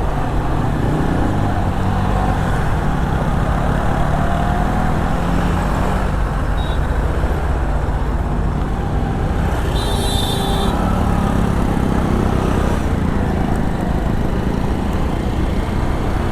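Motorcycle riding through city traffic: steady engine and road noise, with a brief high-pitched beep about ten seconds in.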